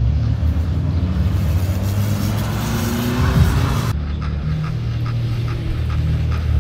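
Competition car engine running hard and revving, its pitch rising over a couple of seconds, with background music mixed in. The sound changes abruptly about four seconds in.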